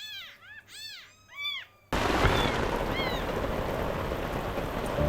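Kitten meowing, about four high rising-and-falling meows in quick succession. About two seconds in, the hiss of heavy rain starts abruptly and carries on, with one more faint meow through it.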